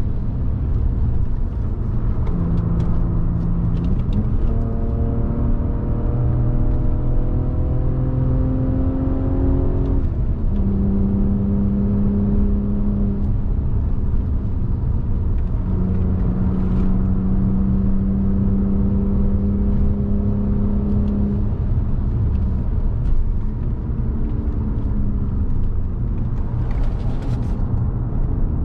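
Audi 3.2 FSI V6 engine of an A6 C6 under load, heard from inside the cabin over steady road and tyre rumble. Its pitch rises as the car accelerates for about six seconds, drops off about ten seconds in, then holds steady for long stretches.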